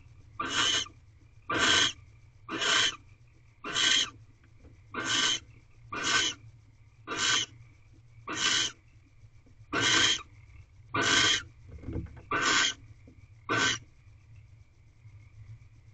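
Barn owl giving a series of harsh, hissing screech calls, about one a second, around a dozen in all, stopping near the end.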